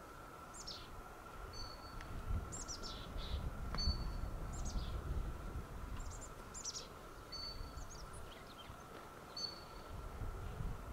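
Small birds calling: a scattered series of high, downward-slurred notes mixed with short flat whistles, over a low rumble.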